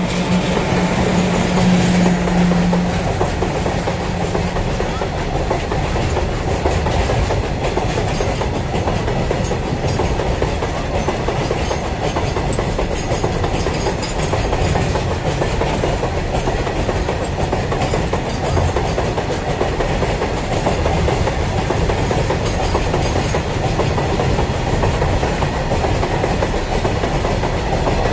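Heavily loaded freight train hauled by a WAG-7 electric locomotive passing close by, its wagons rolling over the rails in a loud, steady rush. A low steady hum sounds through the first few seconds.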